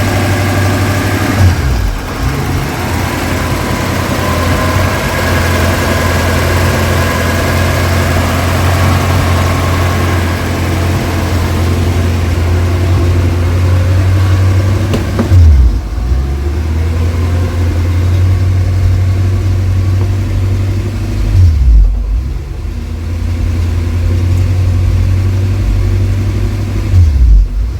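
Porsche 928 4.5-litre 16-valve V8 idling, its idle speed swinging up and down several times: the warm-engine surging idle, which the owner puts down to vacuum leaks. A high whine from the failing fuel pump runs through the first half and then fades.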